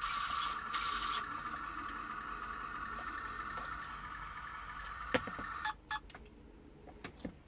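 Mini radio-control toy battle tank running: a steady high-pitched whine that stops abruptly a little more than halfway through, followed by a few light clicks.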